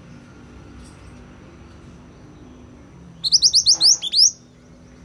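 A small songbird of the kind kept in Indonesia as 'mantenan kuning' gives one quick burst of about ten high, sharp upward-sweeping chirps lasting about a second, a little past the middle.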